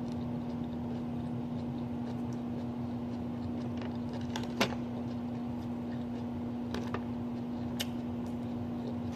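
A person chewing a mouthful of salad, with a few short crisp clicks and crunches, over a steady low hum.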